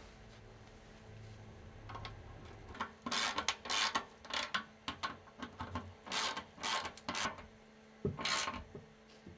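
Hand scraping in about a dozen short, uneven strokes that begin about three seconds in, a rasping rub like filing or abrading a surface by hand.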